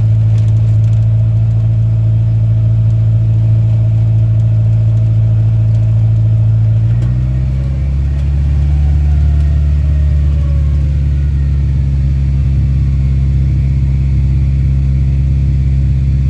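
Farm-truck rat rod's engine running steadily while driving, heard from a phone held in the cab; about seven seconds in the engine note changes and settles lower.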